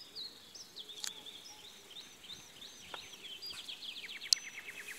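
Small songbirds chirping, with a fast trill of short falling notes over the last second and a half. A single sharp click sounds about four seconds in.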